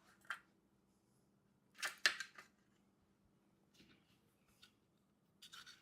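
A few light clicks and taps from handling the beehive's small wooden doors and hardware, the loudest pair about two seconds in, over a faint steady room hum.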